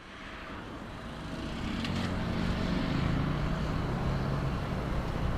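Jet airliner engine noise at an airport, fading in and growing louder over the first couple of seconds, with a low hum that slides slowly down in pitch.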